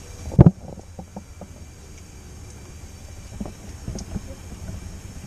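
A loud, short thump about half a second in, followed by a few lighter knocks, over a steady low rumble.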